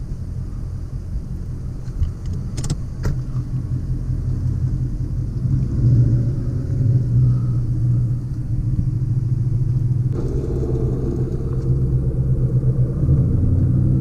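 Car engine running with a low, steady rumble as the car is moved slowly into position. It gets a little louder about six seconds in and changes tone about ten seconds in, with a couple of short clicks near three seconds.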